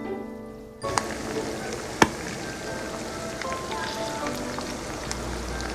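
Food sizzling in hot oil in a pan, a steady crackling fry that starts suddenly about a second in, with one sharp click a second later.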